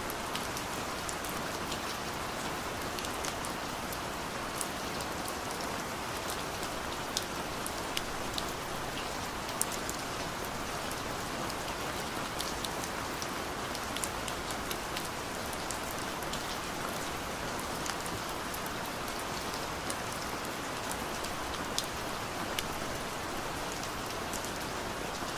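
Rain falling on a car's roof and windows, heard from inside the cabin: a steady hiss of rain with many scattered sharper drop hits.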